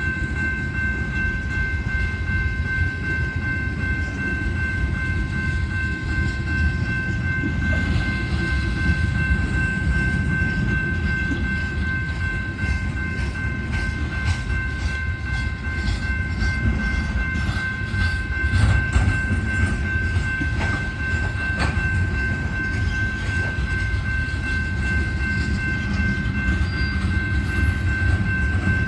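Loaded coal train cars rolling past with a steady heavy rumble, a constant high squeal held over it, and a run of wheel clicks over rail joints partway through.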